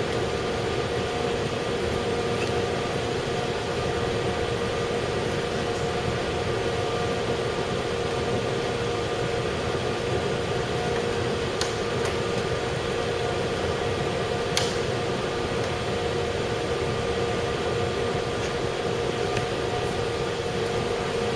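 Small 12 V DC oil-free air compressor running steadily, a constant whirring hum with a few faint clicks, one sharper click about two-thirds of the way through.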